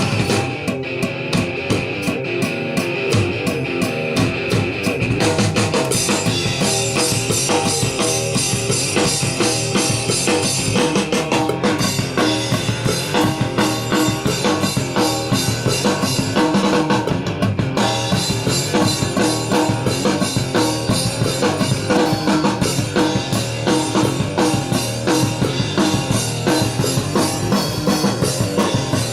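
Rock music with a drum kit playing hard, kick and snare throughout, with guitar underneath.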